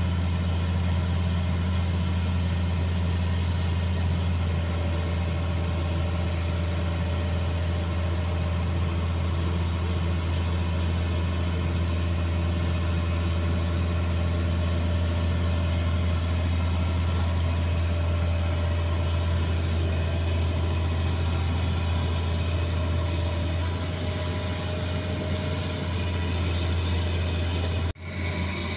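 Heavy truck's diesel engine running steadily at idle, a deep even drone. It drops out briefly near the end.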